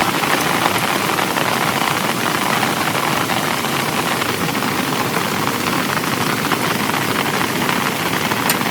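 Heavy rain falling steadily, a dense even patter of drops, with a few sharper drop ticks near the end.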